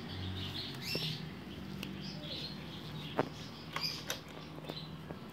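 Faint high chirping, like small birds, over a low steady hum, with a few sharp clicks about three and four seconds in.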